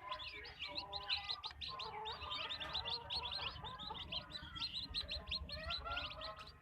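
Backyard chicken flock: a dense, continuous chorus of quick high chirps, many of them short falling notes, over lower clucking calls.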